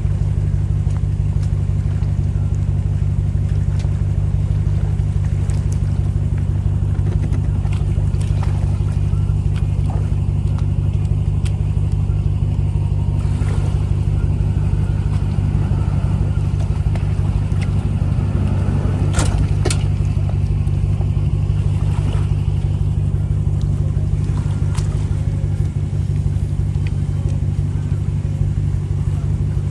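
Boat engine running steadily, a low even drone, with two sharp clicks a little past the middle.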